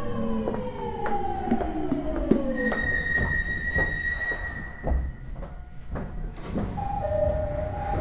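Inside a Tokyo Waterfront Area Rapid Transit 70-000 series car with its original, unrenewed VVVF inverter, braking into a station: the motors' inverter whine sinks in pitch as a chord of falling tones, then holds one steady high tone for a couple of seconds as the train slows to a halt. Wheel clicks over rail joints run beneath, with a low thump about five seconds in and a steady two-note tone starting near the end.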